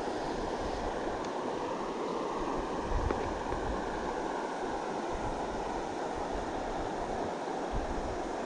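Steady rush of a flowing river, with low wind buffets on the microphone about three seconds in and again near the end.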